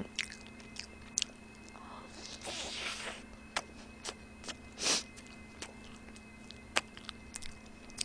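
Close-miked eating of a McDonald's burger: soft biting and chewing, with scattered small mouth clicks and two brief wetter bursts, one a few seconds in and one about halfway. A faint steady hum runs underneath.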